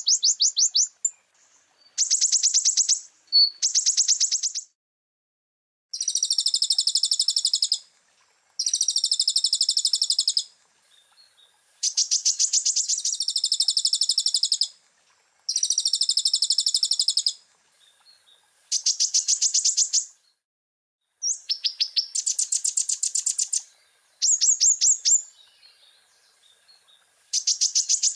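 Kolibri ninja (konin) sunbird song: fast rattling trills of high notes, delivered in repeated bursts of one to two seconds with short pauses between them, a chattering song studded with mimicked phrases.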